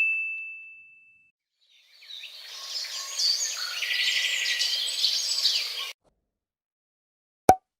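A single bright ding rings out and fades away. After a short gap, about four seconds of small birds chirping fade in and stop abruptly. A brief sharp click comes near the end.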